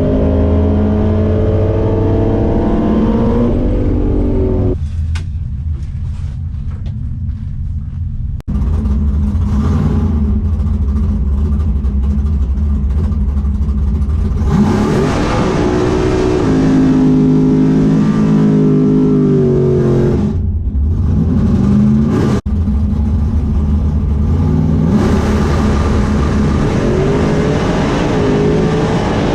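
Drag car engine running hard at high revs, its pitch climbing and falling back repeatedly as it accelerates and shifts. The sound breaks off and changes abruptly about eight seconds in and again about twenty-two seconds in.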